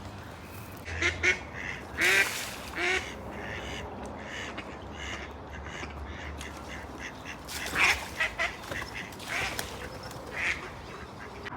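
A bird giving short calls in two groups: several between about one and three seconds in, then another run from about eight to ten and a half seconds in.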